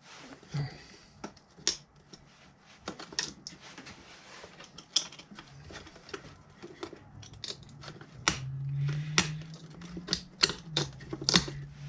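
Irregular clicks, taps and light knocks of hard objects being handled, with a low steady hum coming in during the second half.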